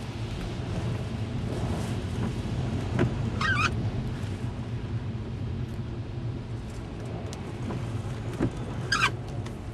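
Steady low rumble of a car with its engine running amid storm wind, with two short, wavering high squeaks, one about three and a half seconds in and one near the end.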